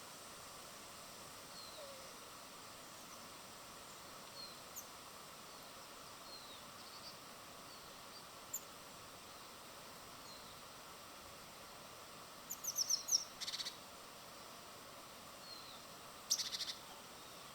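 Small birds at a feeder giving scattered short chirps over a steady outdoor hiss, with two louder bursts of rapid high notes near the end.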